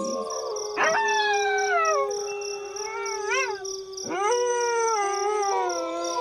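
A pack of wolves howling in chorus: several long howls overlap, one held steady and low while others start high and slide down, with a short wavering howl in the middle.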